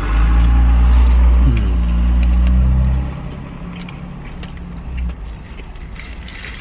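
A motor vehicle's engine rumbling loudly for about three seconds, with a brief falling whine about one and a half seconds in, then fading to a lower rumble that drops away near the end, over small scattered clicks and rustles.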